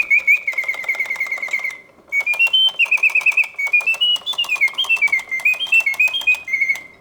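Reuge double singing bird cage automaton singing: its bellows-driven whistle gives rapid trills on one pitch, then rising and falling chirps, with a short break about two seconds in. A busy clicking from the mechanism runs under the song.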